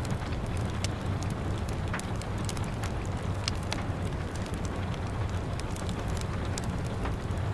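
Steady rain pattering against window glass, mixed with a wood fire crackling, with many small irregular pops and ticks over a low, even rumble.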